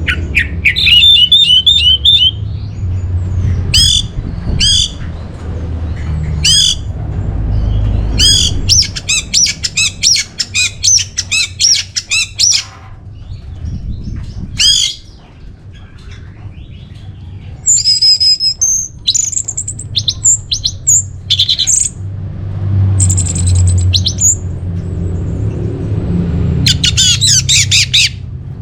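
Orange-headed thrush singing a loud, varied song. It opens with trilled phrases, then gives a long fast run of repeated chirps partway through and high whistled phrases later on. A steady low hum runs underneath.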